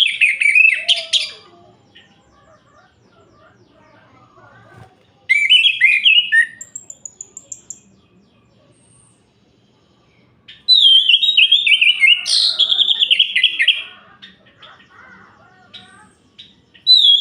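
Orange-headed thrush singing: phrases of rapid, varied warbled notes, one near the start, one about five seconds in and a longer one from about eleven seconds in, with a few thin high notes and quiet pauses between phrases.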